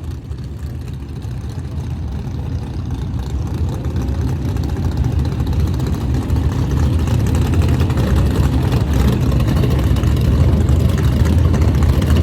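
Race car engines making a low rumble that grows steadily louder.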